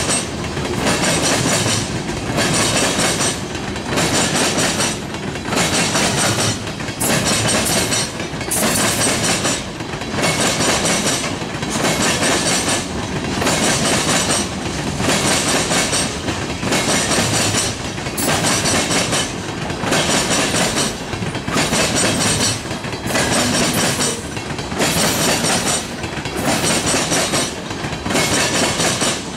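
Loaded rock train's freight cars rolling past close by, wheels clattering on the rails, the noise rising and dipping about once a second.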